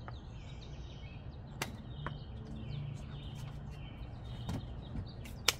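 Birds chirping over a low steady hum, with a few sharp clicks, the loudest near the end.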